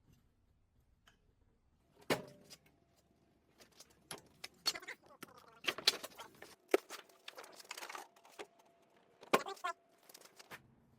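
Thin sheet-metal trim being handled: a series of sharp clanks and rattles with a faint metallic ring, starting about two seconds in.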